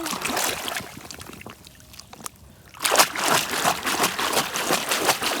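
Water splashing and trickling as a muddy toy vehicle is washed by hand. It is quieter for a while, then grows louder and busier with splashes from about three seconds in.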